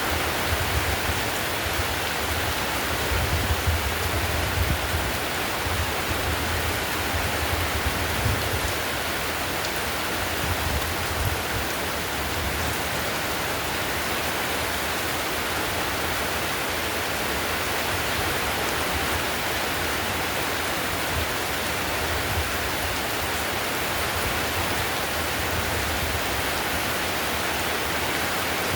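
Heavy rain drumming steadily on a clay-tiled roof, an even dense hiss of drops. A low rumble comes and goes through the first half.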